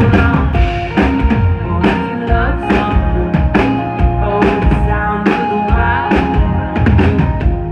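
Live indie-pop band playing, with drum kit beating a steady pulse under sustained guitar and synth tones and some vocals.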